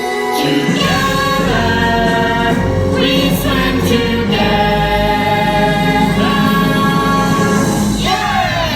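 Stage-musical song: several voices singing long held notes over backing music, with a bass line coming in about a second in and a falling vocal slide near the end.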